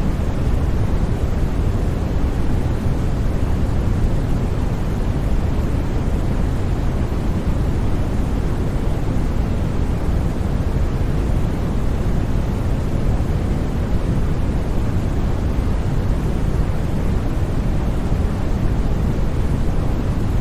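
Steady, unchanging white noise for sleep: an even, deep hiss that is heavier in the bass than in the treble.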